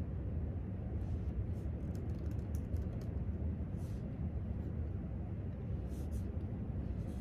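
Light, scattered clicks of typing on a laptop keyboard over a steady low room rumble.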